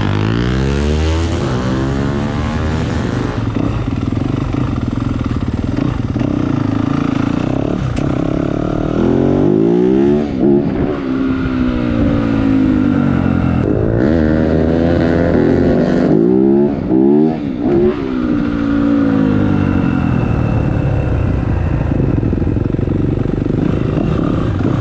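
Yamaha YZ250 two-stroke motocross engine being ridden hard, its pitch climbing and dropping again and again as it accelerates and changes gear. The throttle briefly shuts off about ten seconds in and again around seventeen seconds.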